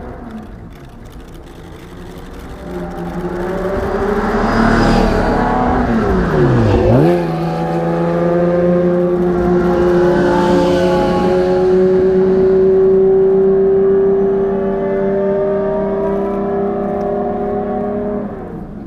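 Yamaha OX99-11's F1-derived V12 engine driving by. It grows louder over the first few seconds and the engine note drops sharply and climbs back about seven seconds in. It then holds a long, slowly rising note that falls away near the end.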